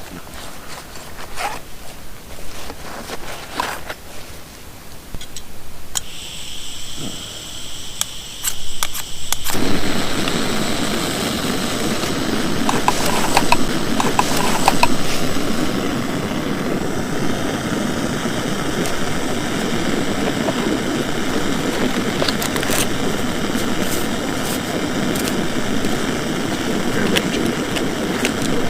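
Portable gas camp stove being lit. A high gas hiss starts about six seconds in, a few igniter clicks follow, and the burner catches with a sudden steady roar about nine and a half seconds in and keeps burning evenly.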